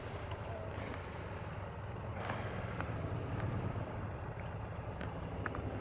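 Triumph Tiger 1200's three-cylinder engine running steadily while riding, with wind rush over the rider's microphone.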